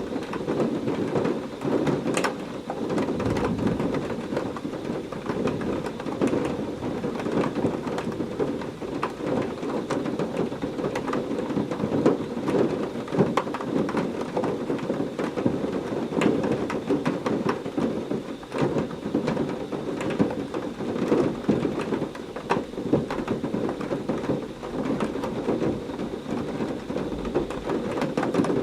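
Heavy rain falling steadily, a dense pattering of drops hitting a surface. Low rolls of thunder rumble under it, about three seconds in and again near the end.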